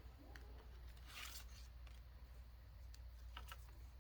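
Near silence: room tone with a low hum, a faint rub about a second in and a few soft clicks near the end.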